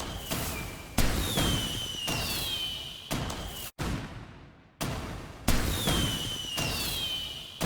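Fireworks going off: a string of sharp bangs about a second apart, each trailing off in a rumble, with high whistles that fall in pitch after several of them. There is a brief drop-out to near silence a little past halfway.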